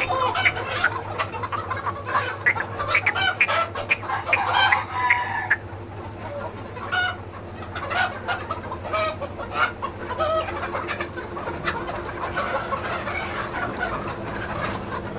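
A flock of chickens clucking and calling, many short calls at once and thinning out after about five seconds, with a rooster crowing among them. A steady low hum runs underneath.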